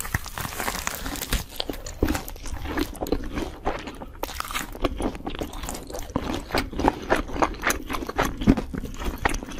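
A person eating crunchy food: close-up biting and chewing, with quick, irregular crunches several times a second.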